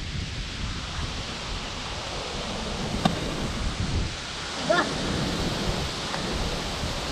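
Wind rumbling on the microphone over a steady hiss, with a single sharp click about three seconds in and a brief wavering high note near five seconds.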